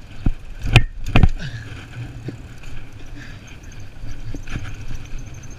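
Bicycle ride heard through a GoPro's microphone: three sharp knocks in the first second and a half, then a steady low rumble of riding with light rattles.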